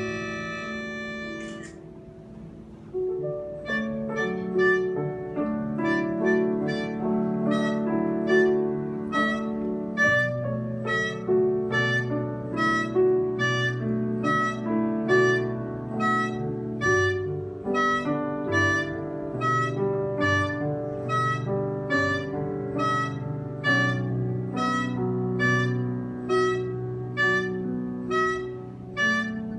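Live instrumental music: a held chord cuts off about two seconds in, then a steady pattern of short, bright repeated notes, about two a second, plays over sustained lower notes.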